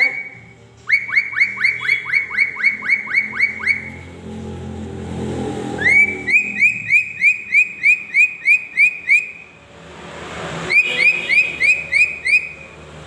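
A bird calling in three bouts of loud, evenly repeated whistled notes, each note sweeping up and then holding, about three to four a second. A low rumble swells in the gaps between bouts.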